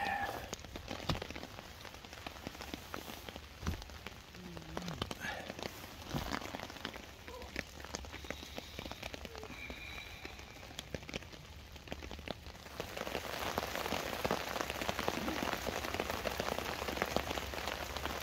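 Rain pattering steadily on a tarp over a hammock, turning louder and denser about thirteen seconds in. Irregular rustling and shuffling in the first half as someone settles into the hammock.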